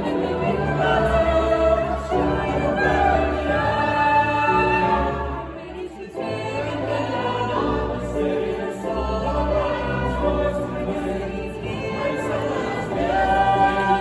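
Stage musical number: a group of voices singing together over instrumental accompaniment, with a brief drop in level a little before halfway.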